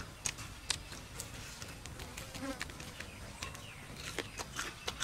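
Close-up eating sounds: irregular wet clicks and smacks of chewing and tearing grilled crocodile meat, over a faint, steady, high insect drone.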